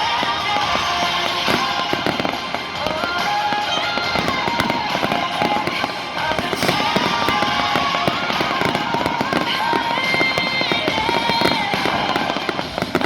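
A fireworks display: rapid bangs and crackling shells bursting throughout, over music with a melody playing.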